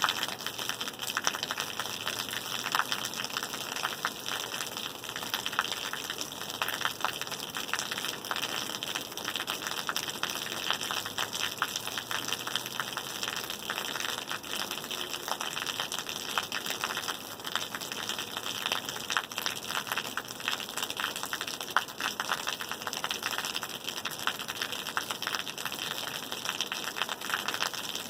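Steady rain: a continuous hiss with many small, irregular drop hits.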